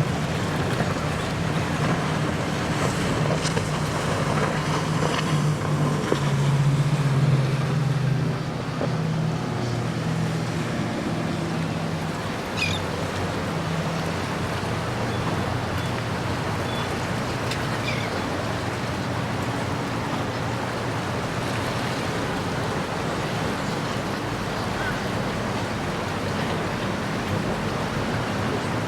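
Boat engines running low as a boat passes, loudest about six to eight seconds in and fading through the second half, over a steady wash of waves and wind.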